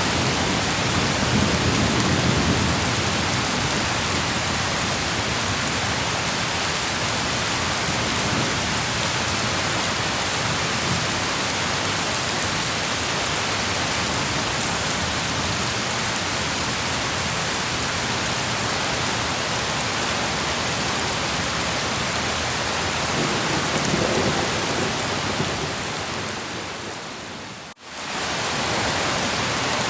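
Steady rain falling, with low thunder rumbling, swelling near the start and again about three quarters of the way through. Near the end the whole sound fades almost to nothing for a moment and then comes back.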